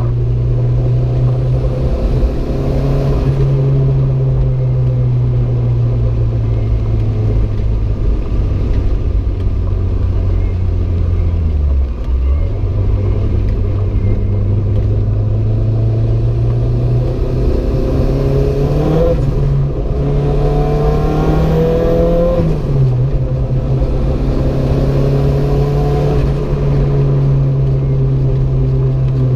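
Renault 5 GT Turbo's turbocharged four-cylinder engine running hard at speed. The revs drop sharply about twelve seconds in and pick up again, then climb steadily from about seventeen seconds before falling off suddenly near twenty-three seconds.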